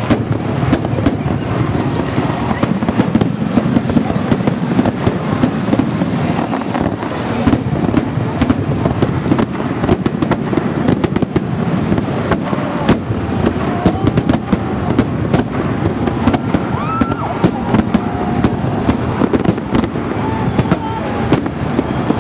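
Fireworks salute going off: a dense, continuous run of loud bangs and crackling shell bursts over a low rumble.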